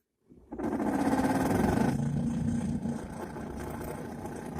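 Classic Lada heater blower motor starting up and running, with the whistle typical of its worn plain sleeve bushings. It comes up within the first second, runs loudest for a couple of seconds, then settles a little quieter.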